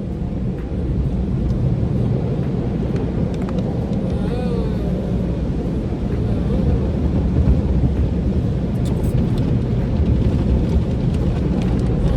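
Automatic car wash machinery heard from inside the car: a steady, loud, low rumble of brushes, water and blowers.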